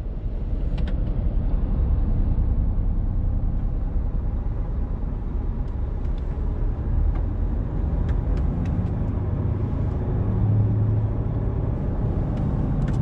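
Truck engine and tyre rumble heard from inside the cab while driving: a steady low drone, with a few light clicks and the engine note swelling briefly about ten seconds in.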